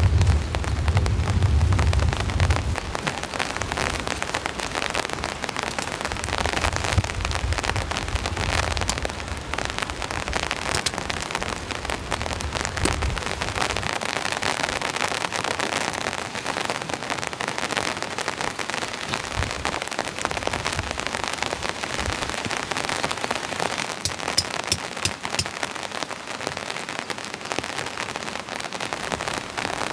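Heavy rain falling steadily as a dense patter of drops. A low rumble runs under it and stops about halfway through.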